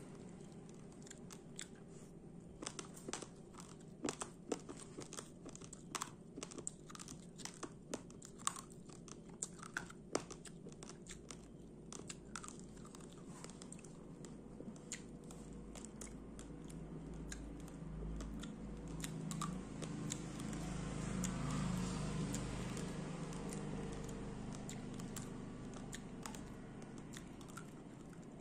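Raw brown rice being crunched and chewed close to the microphone: many sharp, separate crunches in the first part, then denser, muffled chewing that grows louder past the middle and fades again near the end.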